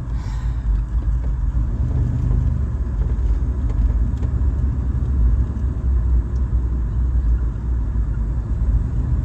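1980s Ford Bronco driving along beach sand: a steady, low engine and driving rumble.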